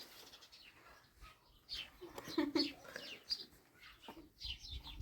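Faint bird chirps: a scatter of short, high calls through the middle and latter part, with a brief faint voice in between.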